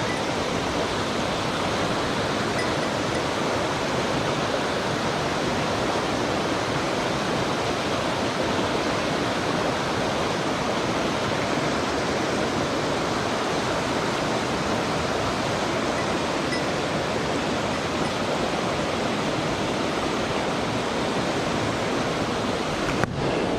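Mountain stream water rushing: a steady, even rush with no change.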